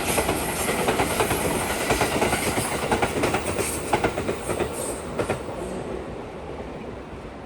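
A train passing close by on the track, its wheels clacking over the rail joints in quick clicks, then the sound fading away over the last couple of seconds.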